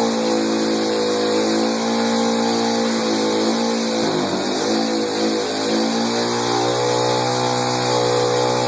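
Pit bike engine running steadily, the revs dropping briefly about four seconds in and climbing back.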